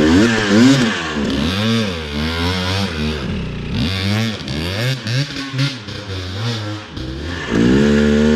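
Dirt bike engine revved up and down again and again as the throttle is blipped while climbing over loose rocks, then held at a steadier higher rev near the end.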